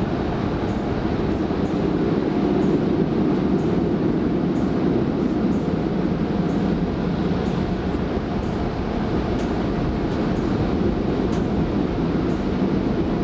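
Steady road and engine noise inside the cabin of a moving Kia K5, an even low rumble with no marked changes.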